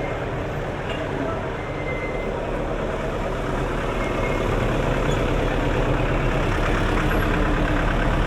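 Street traffic: motor vehicle engines running, with a low engine hum growing slowly louder through the second half.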